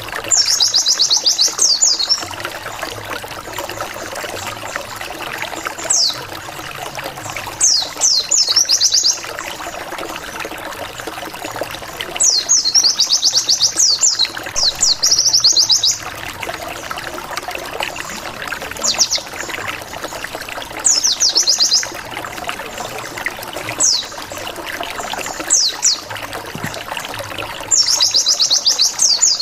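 White-eye (pleci) song used as a lure: rapid trills of high, descending 'wit wit wit' notes in bursts every two to three seconds, over a steady trickling-water background.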